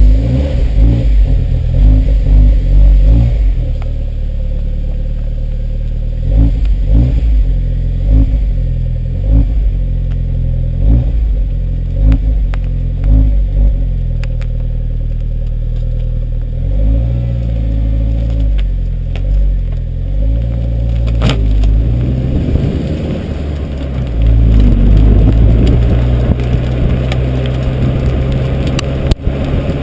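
Hyundai Genesis Coupe 2.0T's turbocharged four-cylinder engine idling through its exhaust, revved in repeated short throttle blips, with a longer, louder rev near the end.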